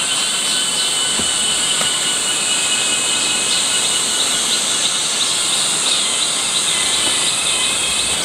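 Steady, high-pitched buzzing hiss of an insect chorus, with faint thin tones above it and no break.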